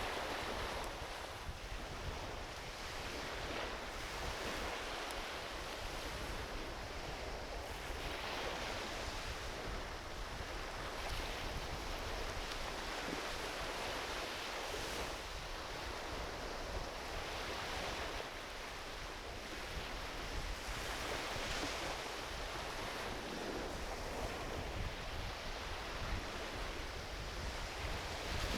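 Small ocean waves washing onto a beach, the surf swelling and easing every few seconds, with wind rumbling on the microphone.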